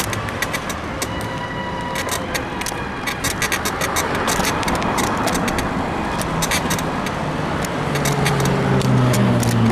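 Wind and tyre noise from a bicycle ride, broken by frequent sharp creaks and clicks from the bike's frame, which the rider puts down to a worn suspension bushing. A motor vehicle's engine hum rises in the last few seconds as it draws near.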